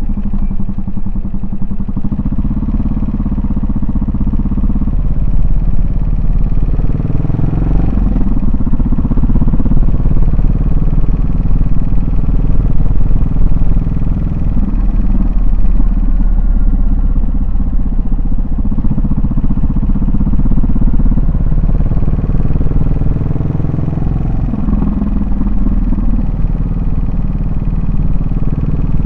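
Yamaha SR400's air-cooled single-cylinder four-stroke engine and exhaust while riding. The engine note rises and settles several times, with steadier cruising stretches between.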